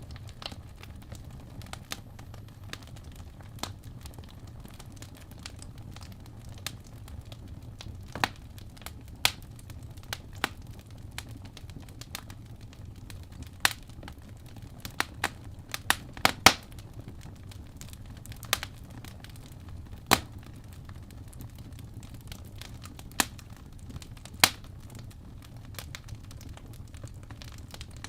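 Wood fire crackling in a fireplace: a steady low rumble with sharp, irregular pops every second or few, the loudest ones clustered around the middle.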